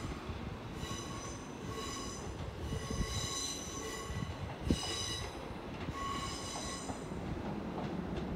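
Train wheels squealing against the rails: about five high-pitched squeals, each lasting roughly a second, over a low rolling rumble from a slow-moving train.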